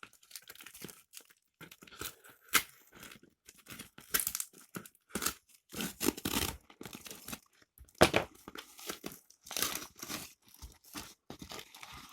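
Delivery packaging being torn open and crumpled by hand, a run of irregular rips and crinkles, the loudest about eight seconds in.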